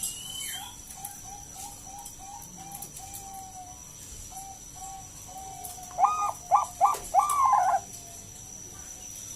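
Zebra dove (Bangkok perkutut) cooing: a run of soft, short coos, then about six seconds in a loud phrase of about four notes, the last one held longest.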